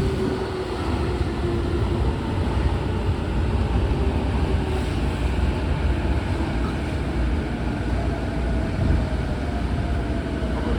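Inside a stationary Odakyu 4000-series commuter train dwelling at a subway platform: a steady low hum from the train's onboard equipment and ventilation, with faint tones that slowly fall in pitch.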